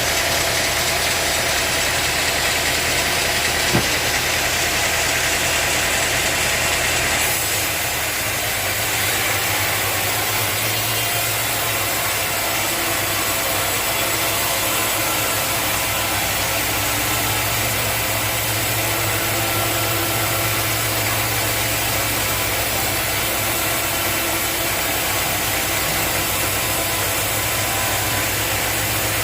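Sawmill machinery running steadily, a continuous mechanical drone with a sharp click about four seconds in; about seven seconds in the high hiss drops away and a low hum becomes more prominent.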